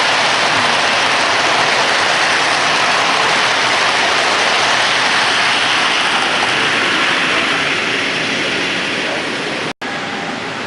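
Steady, dense rushing noise with no clear tones. It cuts out for an instant near the end and comes back a little quieter.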